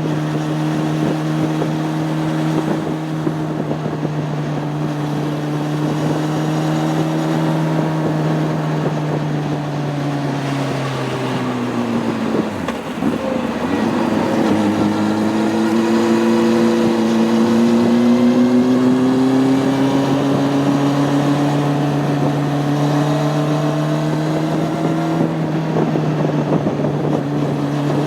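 Honda CB600F Hornet's inline-four engine heard from on board while riding. Its note holds steady, then about twelve seconds in the revs fall and come back higher, climbing slowly for about ten seconds before dropping back to the lower note near the end.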